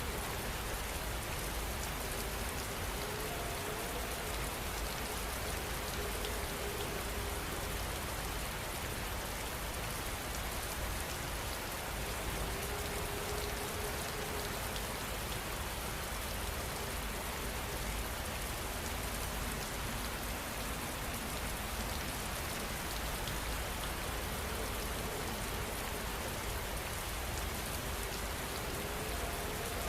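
Steady heavy rain: an even, unbroken hiss of falling drops over a low rumble, holding the same level throughout.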